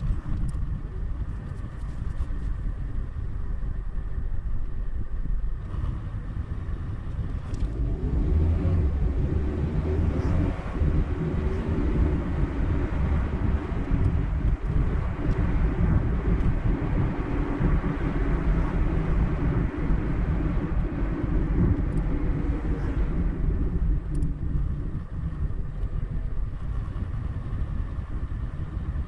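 A car driving along a highway, heard as a steady low rumble of engine and road. A broad tyre hiss swells from about eight seconds in and dies away again near the twenty-three second mark.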